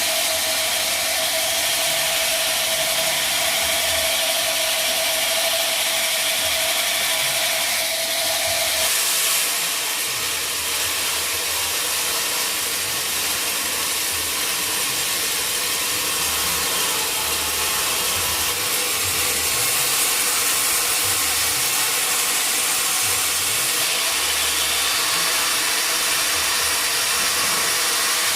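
Sawmill saw cutting through mahogany wood, a loud continuous hiss of blade in timber. A steady tone in the machine cuts off about nine seconds in, and the cutting noise carries on.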